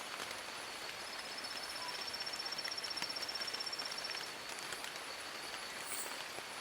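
Steady rain falling on forest leaves, a constant patter with scattered drop ticks. From about a second in until past the middle, a fast high trill runs over it.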